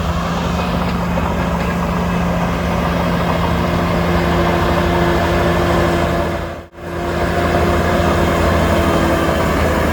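Heavy diesel engine of earthmoving machinery running steadily with a constant drone. The sound cuts out for a moment about two-thirds of the way through and comes straight back.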